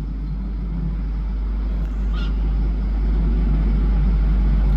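Steady low rumble of a demolition excavator's diesel engine running, slowly getting louder, with one brief high squawk about two seconds in.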